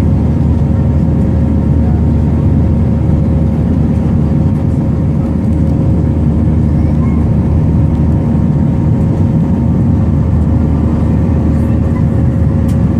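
Steady cabin noise inside an Airbus A320 with its jet engines running: a loud even rumble with a few steady humming tones on top.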